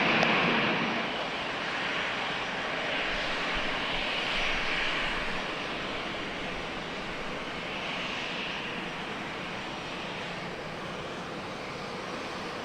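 Jet airliner engine noise at San Diego's runway 27, a steady rushing roar that is loudest in the first second, then eases slightly and holds steady.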